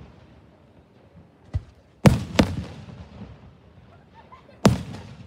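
Aerial fireworks shells bursting: a smaller pop about a second and a half in, two loud booms in quick succession about two seconds in, and another loud boom near the end, each trailing off in a short echo.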